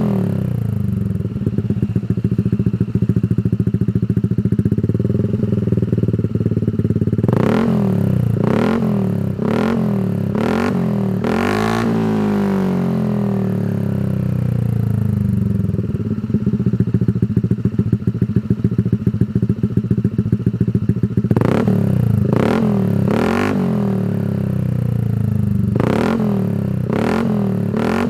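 Honda ADV 160 scooter's single-cylinder engine breathing through a Shijiro MT GP aftermarket racing exhaust, idling steadily and then blipped repeatedly, with quick revs about a second apart in two spells, each followed by the revs dropping back to idle.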